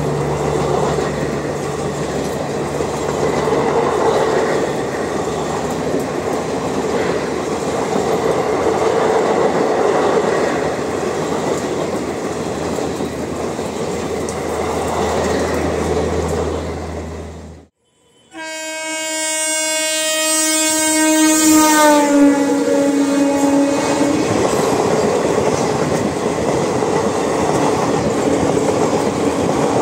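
12739 Garib Rath Express coaches rushing past on the rails with a steady roar. After a sudden cut, a train horn sounds for about six seconds, its pitch dropping partway through as it goes by. Then the 18046 East Coast Express coaches run past.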